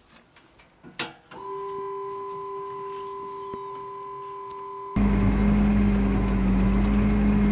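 A click, then a steady mechanical whine. About five seconds in it switches abruptly to a tractor engine running with a steady low drone.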